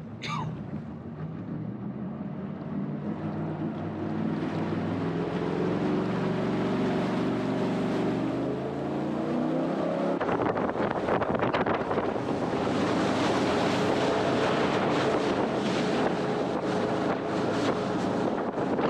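Jet boat engine revving up, its pitch climbing steadily for several seconds as the boat gathers speed. It then runs steadily at speed, with wind buffeting the microphone and water rushing.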